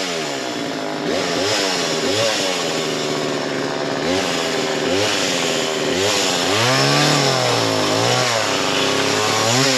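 Small chainsaw cutting into a fallen tree. Its engine pitch rises and falls again and again as it revs up and drops under load in the cut.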